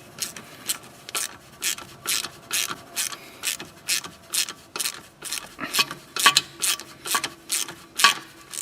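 Hand ratchet wrench driving in the ABS wheel-speed sensor's retaining screw: a steady run of short raspy ratchet strokes, about two or three a second.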